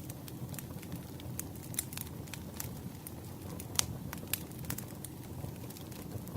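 Campfire burning, a steady low rumble under irregular sharp crackles and pops, one pop standing out nearly four seconds in.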